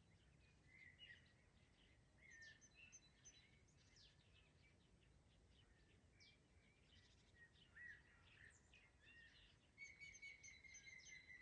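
Several songbirds singing: scattered chirps and short whistled notes, with a quicker run of rapidly repeated notes near the end, over a faint low background rumble.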